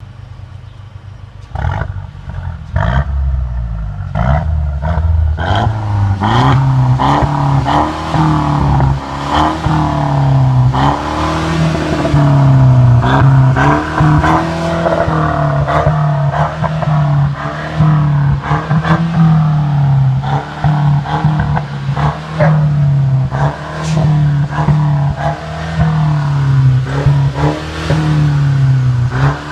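Mercedes-Benz C200 (W205) engine through an aftermarket sport exhaust, coming in loudly about a second and a half in and then revved over and over, the pitch rising and falling every couple of seconds, with sharp crackles among the revs.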